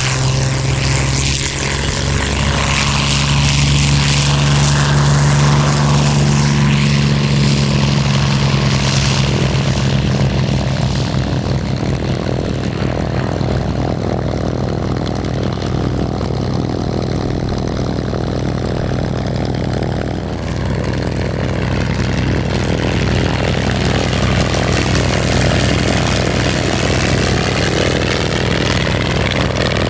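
WWII fighter's liquid-cooled V-12 piston engine running steadily at a constant pitch, with a loud propeller drone.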